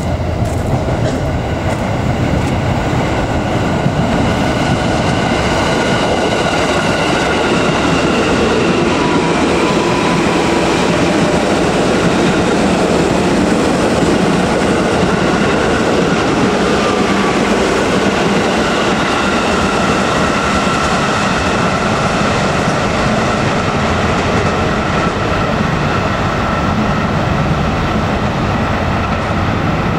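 Electric commuter train running past on the rails: a steady loud rolling rumble of wheels on track, with faint high tones drifting slowly in pitch above it.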